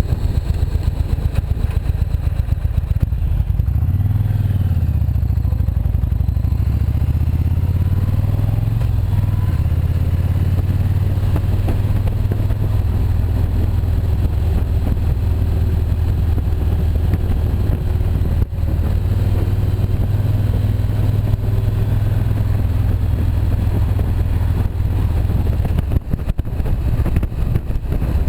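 Motorcycle engine running while riding: its pitch rises and falls a few seconds in as the throttle changes, then it holds a steady cruising drone.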